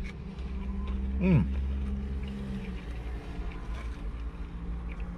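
A parked car's engine idling with a steady low hum. About a second in comes a short vocal 'mmm' that falls in pitch, from the man chewing a fried shrimp.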